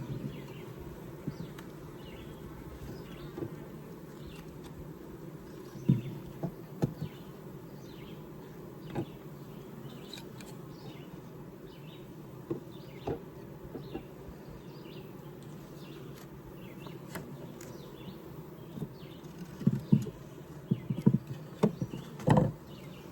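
Honeybee colony buzzing steadily in an open Layens horizontal hive, with scattered short wooden knocks and clicks as the frames are pushed back together, coming thicker near the end.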